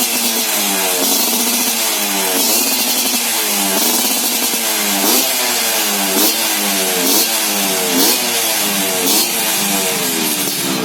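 Yamaha YT115's stock two-stroke single-cylinder engine revving in repeated throttle blips through a loud aftermarket exhaust, the pitch rising and falling about once a second.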